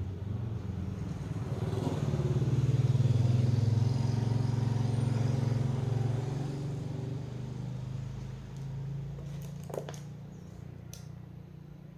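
A low motor-vehicle engine hum swells over the first few seconds, holds, then fades away, like a vehicle passing. A short sharp click comes near the end.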